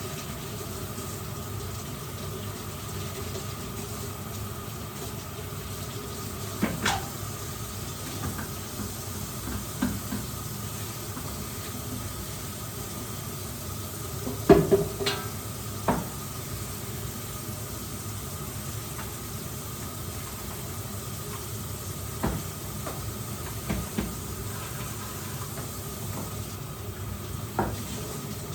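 A steady hiss with occasional short knocks and clatter of things being handled in a kitchen. The loudest knocks come about halfway through.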